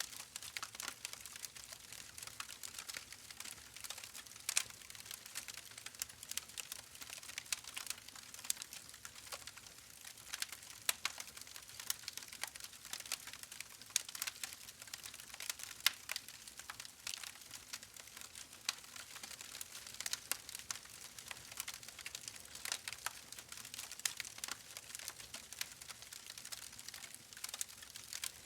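A steady bed of fine, irregular crackles and soft ticks, dense and without rhythm, with a few louder pops scattered through.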